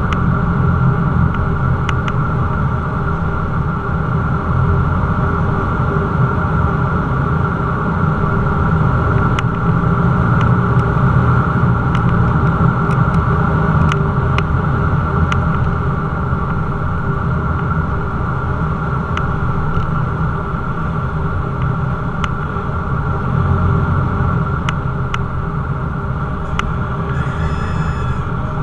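Cessna 172's piston engine and propeller droning steadily, with a deep rumble and a steady hum. Faint ticks now and then, and a brief high tone near the end.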